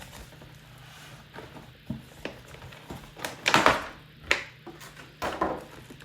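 Steel EV charging cable retractor unit being handled: a series of knocks and clatters of metal parts, loudest in a cluster a little past halfway, with a few single knocks before and after.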